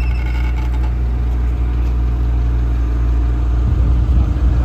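Off-road 4x4's engine running at low revs, a steady low drone that grows a little louder and rougher near the end.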